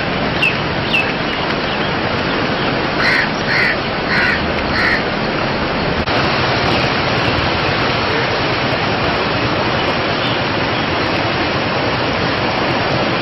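A steady, loud rushing noise, with short harsh calls: a couple right at the start and four in a row, about two a second, roughly three to five seconds in.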